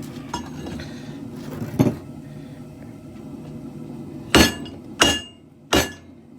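Hammer blows on hot steel on an anvil: one lighter knock about two seconds in, then three hard strikes with a short metallic ring, a little over half a second apart, in the second half. A steady low rumble, the propane forge, runs underneath.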